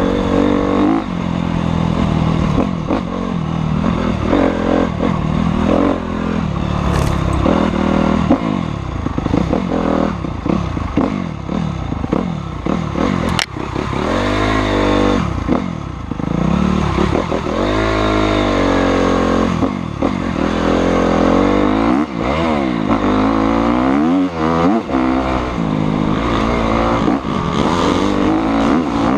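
Motocross motorcycle engines revving hard, their pitch rising and falling over and over as the throttle opens and closes, at times more than one bike at once.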